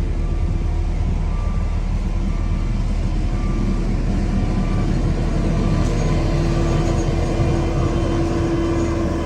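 Heavy diesel road-paving machinery running steadily, with a steady whine that grows louder about five seconds in and a faint beep repeating about once a second.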